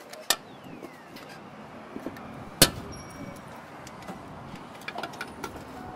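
Hand tools and a toolbox being handled, with light metallic clinks and rattles and two sharp knocks, the second and loudest about two and a half seconds in, over a steady low background noise.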